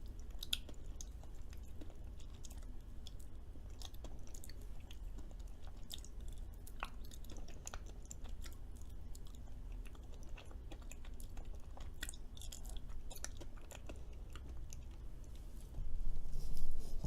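A person chewing and eating fruity chocolate brownie, close to the microphone, with scattered faint wet mouth clicks over a low steady room hum. A louder noise comes in about a second before the end.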